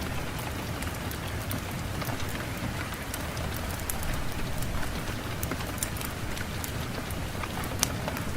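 Steady rain falling on a surface, with many separate sharp drop impacts ticking over the even hiss of the downpour; one drop strikes louder near the end.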